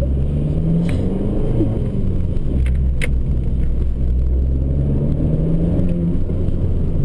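Abarth 595 Competizione's turbocharged 1.4-litre four-cylinder engine running at low, fairly steady revs, with a few sharp clicks in the first half.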